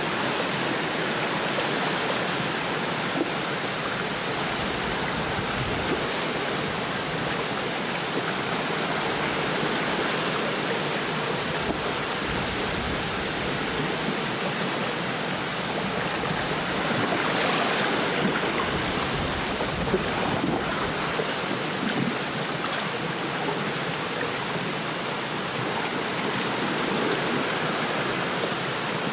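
Steady wind rustling through a lakeside reed bed, with small waves lapping at the shore. The wind swells briefly a little past the middle.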